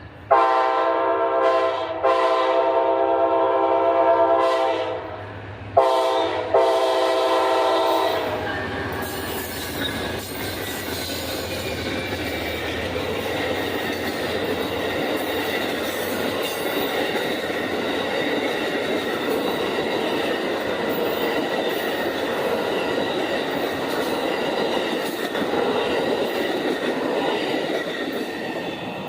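Locomotive multi-chime air horn sounding the grade-crossing pattern, two long blasts, a short and a long, then the train running past with wheels clacking over rail joints and a thin high squeal from the wheels.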